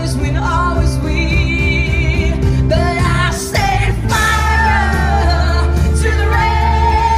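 A woman singing a pop ballad live over band accompaniment, with steady heavy bass under a held, wavering vocal line; the singing drops out briefly about halfway through, then returns.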